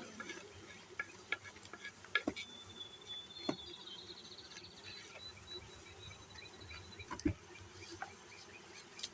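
Honeybees of a small swarm buzzing in a steady low hum, with scattered light knocks. A high, thin trill sounds from about two seconds in to about seven seconds.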